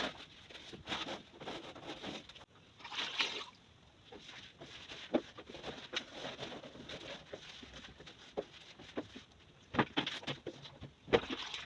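Wiping and rubbing the inside of a fridge by hand in intermittent strokes, with a few sharp knocks against the fridge's plastic interior.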